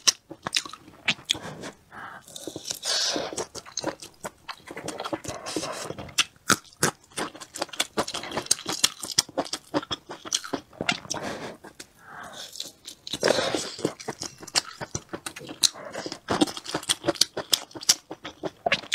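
Close-miked chewing of grilled sausage: many quick wet mouth clicks and smacks, coming in several bouts with short pauses.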